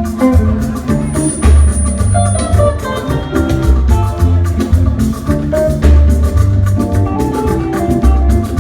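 Instrumental band music with a steady beat: guitar lines over a heavy bass and drums, no singing.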